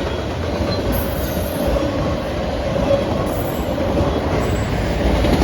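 Cars of a Norfolk Southern manifest freight train rolling past: a steady noise of steel wheels on rail with a faint, thin, steady whine.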